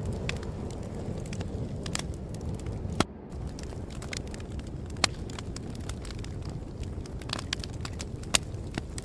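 Wood fire crackling, with irregular sharp pops and snaps over a low steady rumble; the loudest pops come about three, five and eight seconds in.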